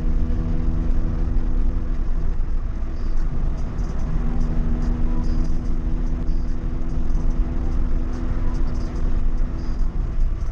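Volkswagen Gol's engine running under way, a steady engine note over a low rumble. The note eases about two seconds in and picks up again around four seconds.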